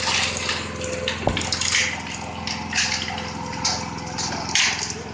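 Wet concrete mix being shovelled and scraped, a wet swish about once a second, over a steady mechanical hum.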